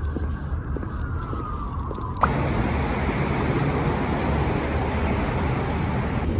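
A distant siren wailing in one slow falling glide over a low rumble. About two seconds in it cuts abruptly to a steady rush of traffic noise.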